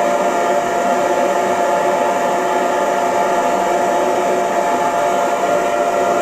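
Hair dryer running steadily: an even rush of air with a constant motor whine.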